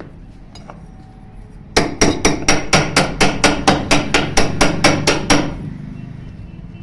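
Hammer striking metal in a quick, even run of about sixteen blows, roughly four a second, each with a bright metallic ring.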